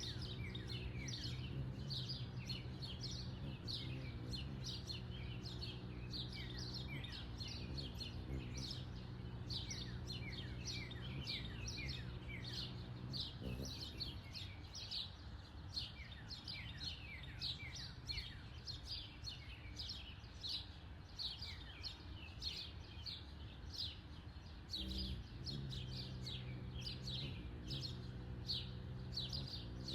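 Backyard songbirds chirping: many short chirps, each sliding downward in pitch, several a second. Under them runs a steady low mechanical hum that briefly changes twice.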